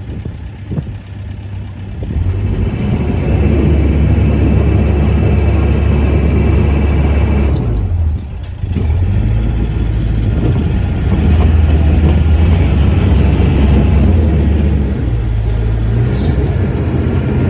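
Loud low rumble aboard a moving tour boat, rising about two seconds in and dropping out briefly about eight seconds in.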